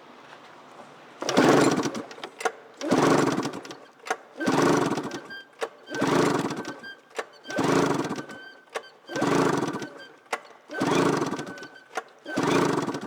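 Arctic Cat F6 two-stroke twin snowmobile engine being cranked over and over for a compression test on the magneto-side cylinder, with a gauge fitted and the spark plug out, so it turns without firing. About eight cranking bursts come one every second and a half or so, with short clicks between them. The gauge reads 125 psi.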